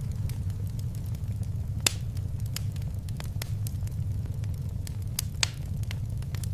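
Fireplace fire crackling: scattered sharp pops and snaps, two of them louder (about two seconds in and near the end), over a steady low rumble of the flames.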